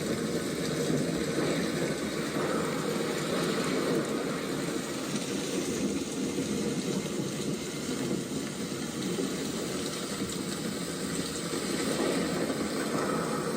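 Thunderstorm: steady heavy rain with a continuous low rumble of thunder that swells and eases slightly, without any sharp thunderclap.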